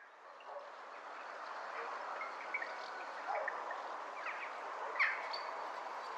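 Outdoor forest ambience fading in: a steady hiss with scattered short bird chirps over it, one sharper chirp about five seconds in.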